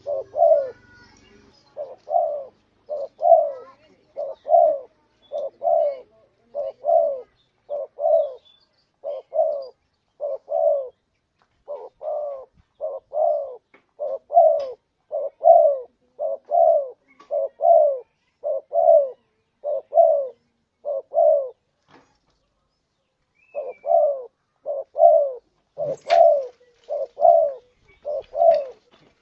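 A spotted dove (tekukur) cooing over and over in a steady run of paired notes, with a break of about two seconds about three-quarters of the way through. It is a contest bird's song of the kind used as a lure call to draw wild doves. A single sharp click comes shortly after the break.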